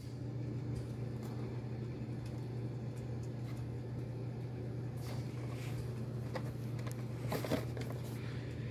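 A steady low hum, with a few faint clicks and rustles of a carded toy package being handled, the clearest about five and seven and a half seconds in.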